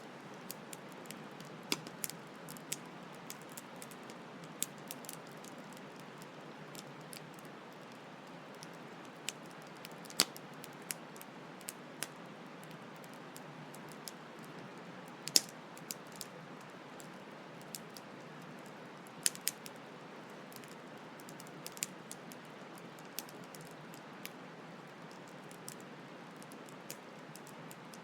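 Wood campfire crackling with irregular sharp pops and snaps, a few much louder than the rest, over the steady rushing hiss of a flowing stream.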